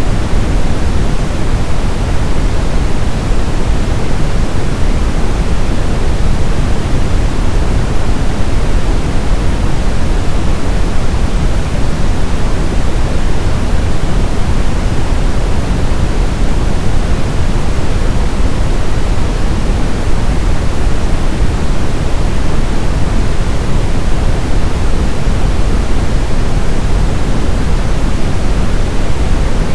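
Synthetic brown noise: a steady, unchanging hiss-like rumble, strongest in the deep lows and falling away toward the highs.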